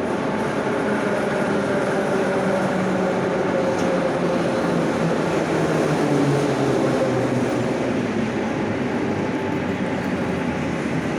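Moscow Metro 81-717/714 'Nomernoy' train running between stations: steady wheel-and-rail noise with a hum of motor tones that drift slightly in pitch.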